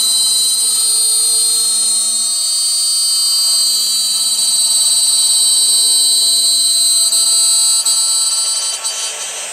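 High-speed spindle of an SKX3+1-CNC-3000 aluminium-profile CNC drilling and milling machine running, a steady high-pitched whine made of several tones. It drops away in the last second.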